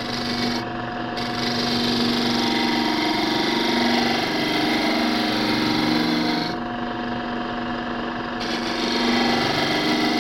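Wood lathe running with a steady motor hum while a tool cuts the spinning loblolly pine fatwood, adding a scraping hiss that eases off for a couple of seconds partway through.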